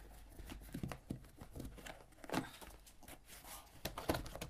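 Light clicks, knocks and rustles of a plastic baby-wipes container being handled as a wipe is pulled out, with two louder knocks about two and a half seconds in and near the end.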